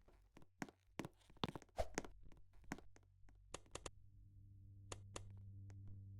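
Ceiling fan motor starting up: a low electrical hum with several overtones that grows steadily louder. Scattered clicks and knocks come in the first few seconds.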